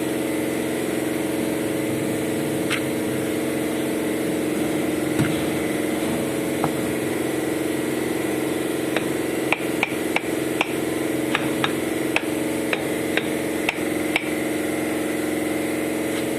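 A steady engine-like machine drone runs underneath, and about halfway through a run of sharp taps comes in, roughly two a second for several seconds: tool strikes during repair work on a brick stove.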